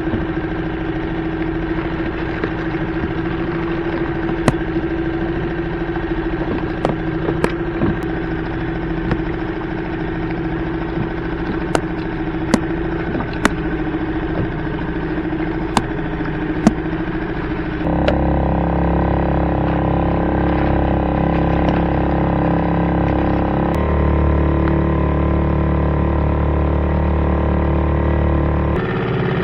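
Small Yamaha 2 hp outboard motor running at a steady speed, with scattered sharp clicks. About 18 seconds in, background music with sustained chords comes in over it.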